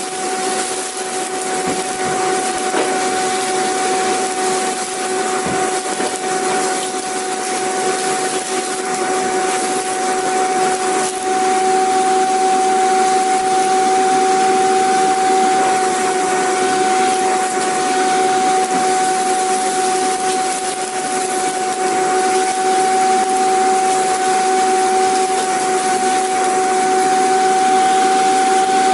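Vacuum cleaner running continuously: a steady motor whine over a loud rushing of air.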